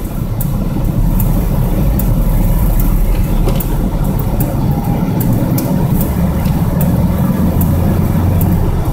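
A car engine running under way, heard from inside the cab, while the five-speed manual gearbox is shifted without the clutch. The engine note gets louder about a second in and changes pitch around six seconds in as the gears change.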